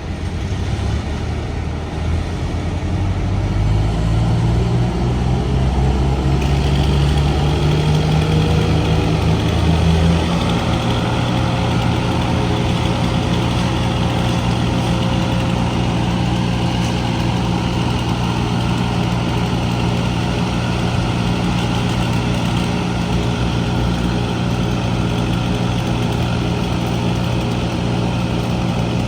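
A heavy engine running, its pitch climbing over the first ten seconds or so, then holding steady at a higher speed.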